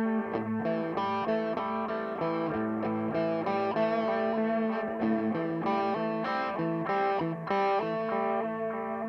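Electric guitar played through a Donner Yellow Fall delay pedal: a quick melodic run of single picked notes, several a second.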